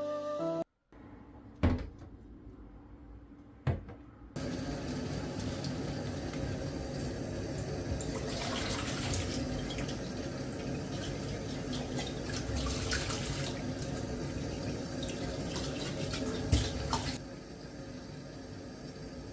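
Two clicks, then a kitchen tap running steadily into a sink for about thirteen seconds. The water gets brighter and splashier for two short stretches midway, then is shut off, leaving faint room tone.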